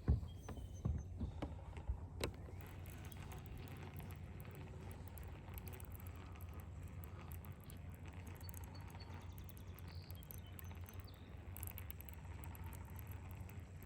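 A few sharp knocks against a plastic kayak in the first two seconds or so, the first the loudest, then a steady low rumble.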